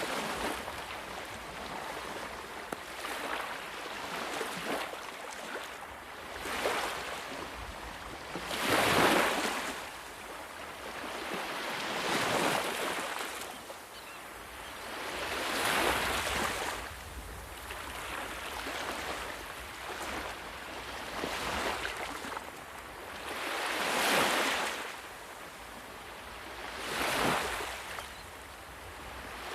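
Sea waves breaking and washing in, one surge of hiss swelling and fading every few seconds, the strongest about nine seconds in.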